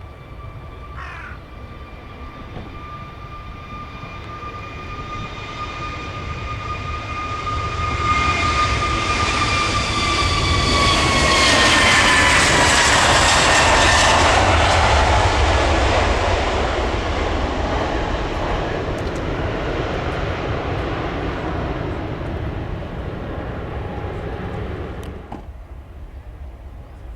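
Jet airliner taking off and passing by: a steady engine whine holds its pitch as it approaches, then slides down in pitch as it goes past, under a broad rush that is loudest midway and then fades. The sound drops away suddenly near the end.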